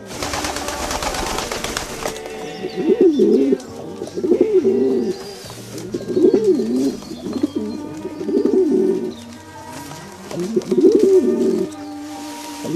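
Pigeon cooing: five low coo phrases about two seconds apart, after a rush of noise in the first two seconds.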